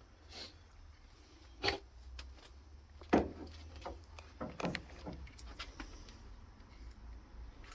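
Scattered knocks and clinks of tools and car parts being handled during hands-on work on the car, the loudest about three seconds in and a quick cluster a little later, over a steady low hum.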